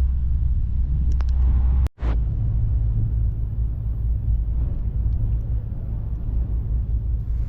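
Low rumble of storm wind buffeting the microphone, with a brief dropout about two seconds in.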